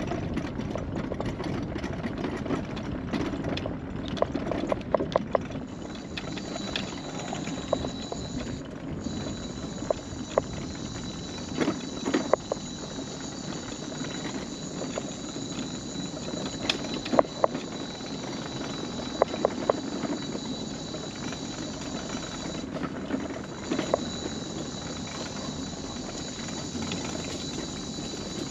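Electric mobility scooter rolling along a wooden boardwalk: a steady running hum and whine, with knocks now and then as the wheels go over the planks.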